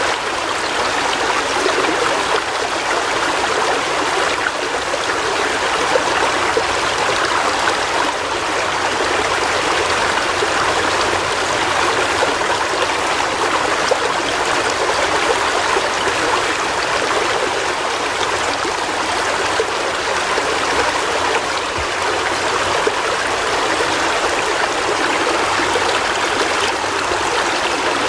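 River water flowing in a steady, even rush of running water with no breaks.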